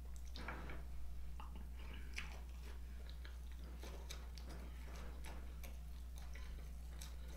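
A person chewing a mouthful of vegan sausage in a bun: scattered soft mouth clicks, faint over a steady low hum.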